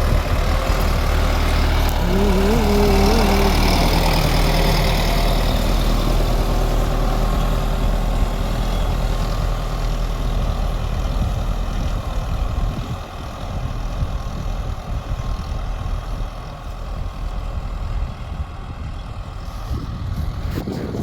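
Sonalika Tiger 65 DI CRDi tractor's diesel engine running steadily under load while pulling a cultivator, a low steady drone. It becomes quieter and rougher about halfway through.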